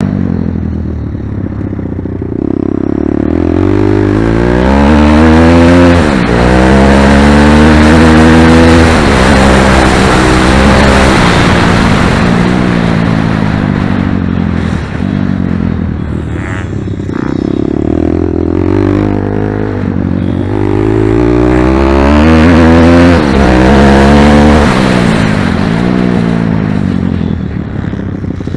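Pit bike engine ridden hard and loud, its pitch climbing steeply as it accelerates, dropping back, then climbing again, with steadier running in between.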